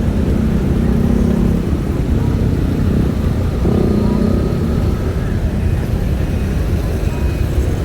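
A motor vehicle running steadily: a constant low engine rumble with no sharp events.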